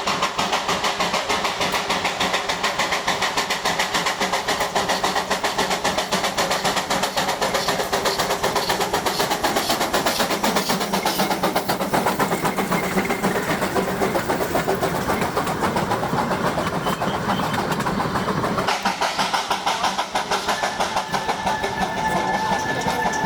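Darjeeling B Class 0-4-0 saddle-tank steam locomotive working along the narrow-gauge line with its train, in rapid, even beats. Near the end a steady high tone sets in over the running.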